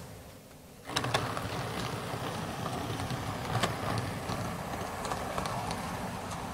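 Diesel multiple unit running along the line: a steady engine-like running noise with scattered sharp clicks, starting suddenly about a second in.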